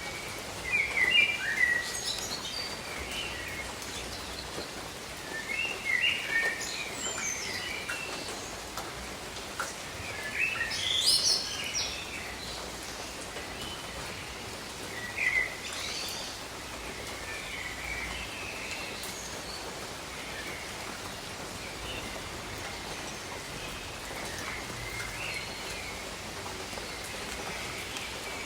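Steady rain with birds chirping over it in short bursts, loudest in the first half and thinning out after about sixteen seconds.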